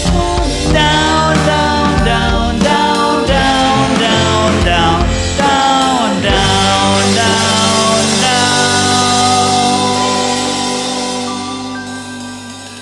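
A band playing the close of a rock song with drums, bass and bending melodic notes. About six seconds in it settles on a final held chord that rings and fades away.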